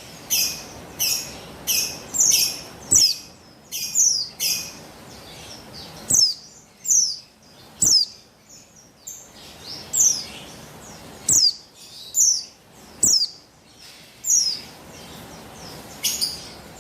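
Female white-eye of the buxtoni form (Oriental white-eye) calling: a series of short, high chirps, each sweeping downward in pitch. They come in quick clusters at first, then about one every second or so.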